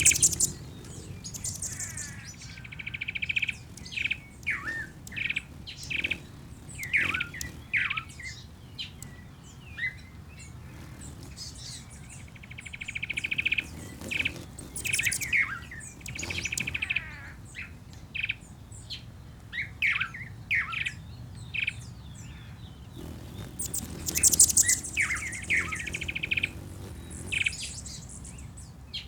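Ambient birdsong from several birds: many quick chirps and calls, and a buzzy, rattling trill that comes back every several seconds, over a faint steady low background noise.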